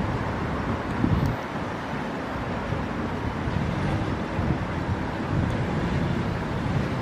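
Steady city traffic rumble with wind on the microphone, and a faint steady engine hum joining a few seconds in.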